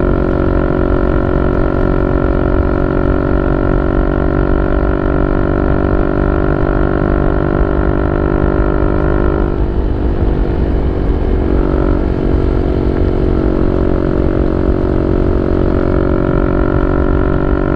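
Yamaha Y15ZR's 150cc single-cylinder four-stroke engine running steadily through a YYPANG SD3 aftermarket exhaust, a loud even drone; about ten seconds in, the note wavers and shifts for a couple of seconds before settling back to the same steady pitch.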